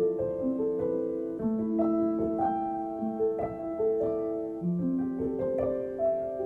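Background music: a slow, gentle piano melody with sustained notes.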